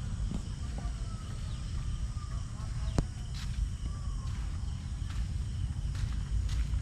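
Outdoor ambience: scattered faint bird calls over a steady low rumble, with one sharp click about three seconds in.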